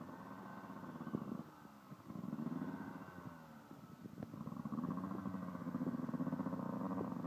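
Honda CR125's single-cylinder two-stroke engine running at low revs, its note swelling and easing off. It gets louder about two seconds in and again from about halfway, with a few sharp knocks in between.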